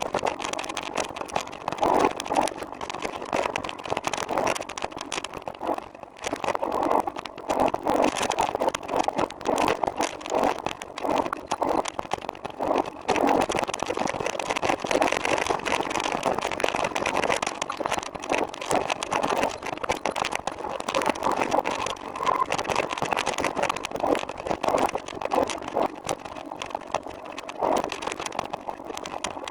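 Recumbent trike on the move, its frame and fittings rattling irregularly and continuously as it rolls over the road surface.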